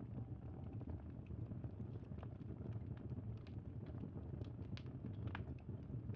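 Campfire crackling: a steady low rumble of the burning fire with scattered sharp pops and snaps, one stronger pop about five seconds in.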